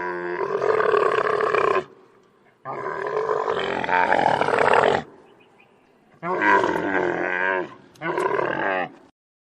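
A large animal giving four drawn-out, wavering roaring calls with short pauses between them.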